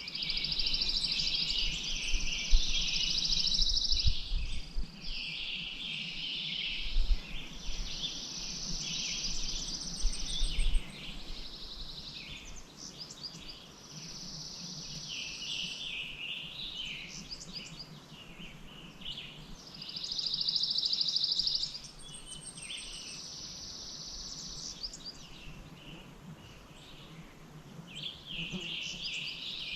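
Songbirds singing: trilled, buzzy phrases of one to two seconds, one after another. A few low rumbles come in the first eleven seconds.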